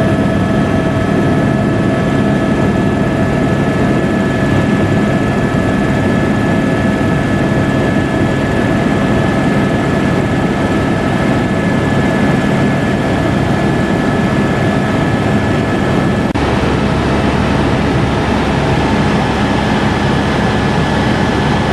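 Helicopter running steadily, a loud, even hum with several fixed tones; its low part changes slightly about sixteen seconds in.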